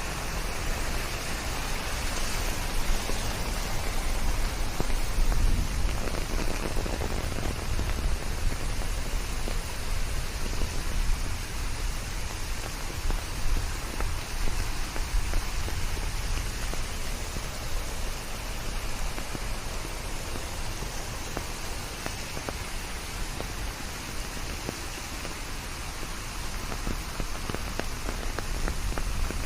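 Steady rain falling on leaves, a dense patter of drops over an even hiss with a low rumble underneath.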